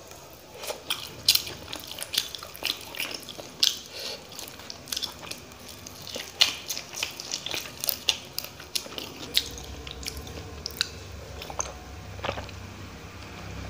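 Close-up mouth sounds of a man chewing a piece of fried fish: wet, irregular clicks and smacks, thinning out after about nine seconds. Near the end, a drink of water from a glass.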